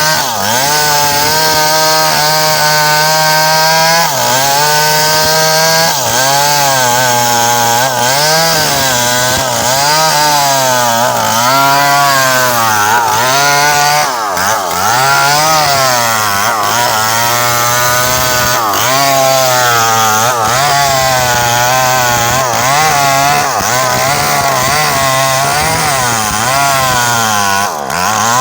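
Small two-stroke chainsaw cutting through a coconut palm trunk. The engine runs near full throttle, and its pitch dips and recovers over and over as the chain bites into the wood.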